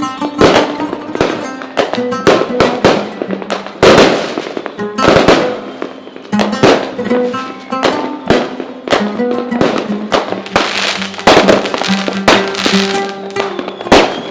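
Fireworks bursting and crackling in quick, irregular succession, several big bangs among them, over music with sustained notes.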